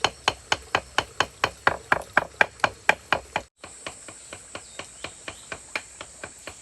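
Rapid, even chopping of food with a knife on a cutting board, about six strokes a second. After a sudden break a little past halfway, lighter chopping goes on over a steady high chirring of crickets.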